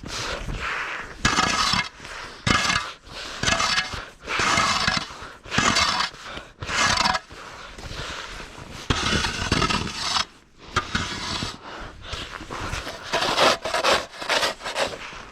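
Snow shovel scraping and pushing through packed snow in repeated strokes, about one a second, uneven in length and loudness.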